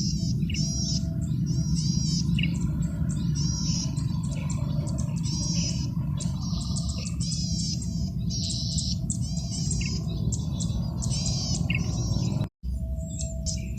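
Male red-headed cici padi (cisticola) singing: a continuous run of short, high, buzzy chirps repeated rapidly over a steady low hum. The audio cuts out for an instant near the end.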